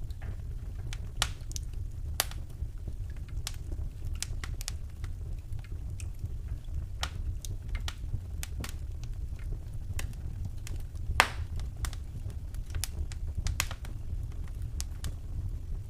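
Wood fire burning in a fireplace: a steady low rumble of flames with irregular sharp crackles and pops, the loudest pop about eleven seconds in.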